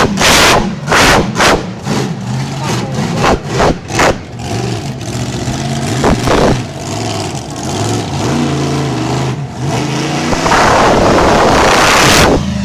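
Monster truck engine revving in a run of short, loud throttle bursts, then running with its pitch wavering up and down, and a long, loud stretch of hard throttle near the end.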